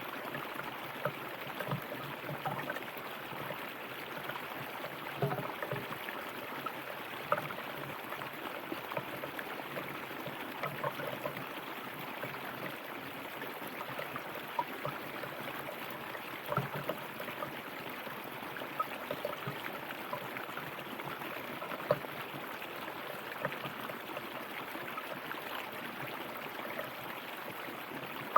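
River water flowing steadily over stones, with frequent small splashes and gurgles.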